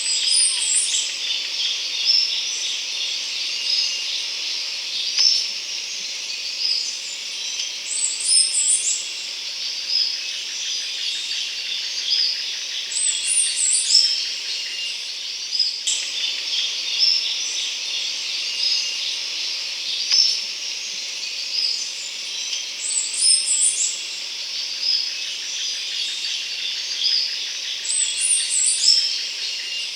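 Rainforest ambience: many birds chirping over a steady trilling of insects, with a higher call coming back every few seconds.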